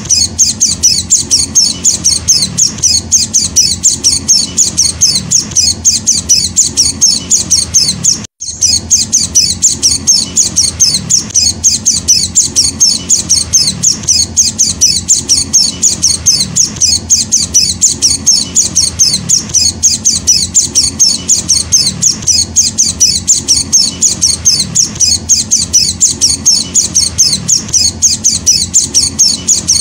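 White-eye (Zosterops, 'pleci') chick chirping: rapid, high-pitched, evenly repeated calls, about four a second, with a brief break just over eight seconds in.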